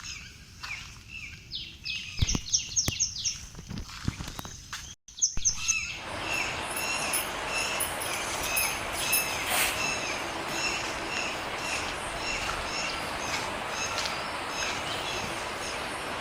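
Birds chirping in short, repeated high calls, with a few sharp knocks in the first few seconds. After a brief dropout about five seconds in, a steady hiss runs under the chirping.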